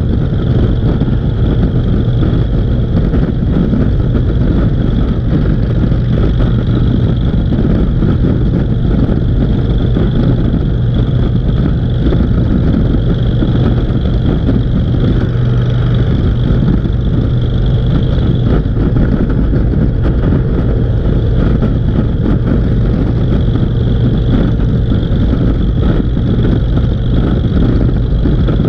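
Motorcycle engine running steadily at cruising speed, a continuous loud drone with no let-up or change in pitch.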